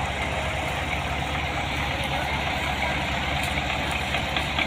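Belarus 510 tractor's diesel engine running steadily.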